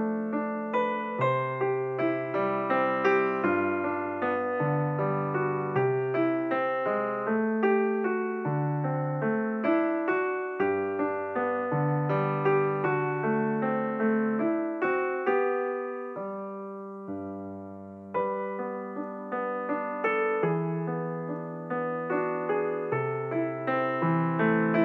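Background piano music: a keyboard plays a flowing melody and chords over low bass notes. About sixteen seconds in, one chord is left to die away before the playing resumes.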